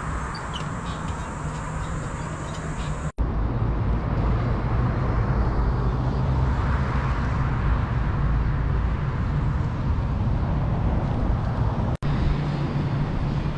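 Steady outdoor road and traffic noise with a low rumble, as of vehicles on a road. It drops out sharply for an instant twice, about three seconds in and near the end.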